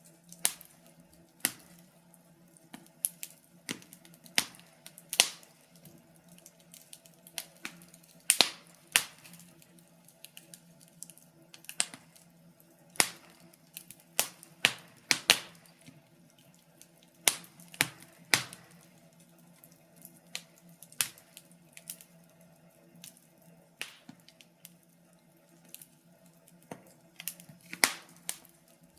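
Wood fire crackling in a fireplace: irregular sharp pops and snaps, unevenly spaced and some much louder than others, over a faint steady hum.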